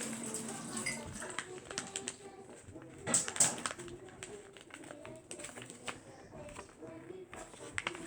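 A sheet of paper being handled, folded and creased, in short crackling rustles, loudest about three seconds in.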